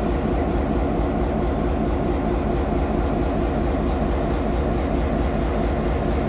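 Diesel-electric locomotive, a rebuilt EMD GP7, running with a steady low drone.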